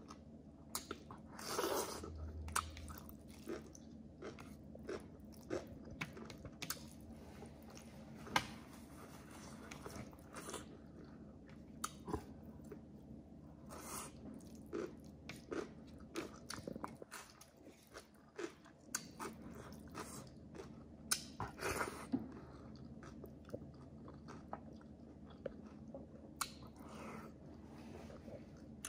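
Close-miked eating sounds: a person chewing and biting food, with irregular crunches and clicks throughout. A few louder bites come near the start and about two-thirds through.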